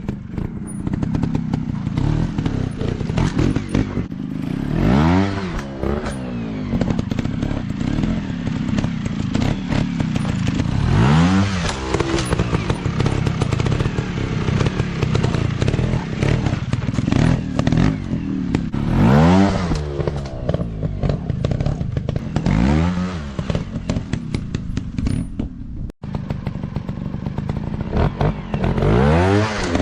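Off-road dirt bike engine running, revved up and down again and again in sharp sweeps that rise and fall in pitch, with clatter in between.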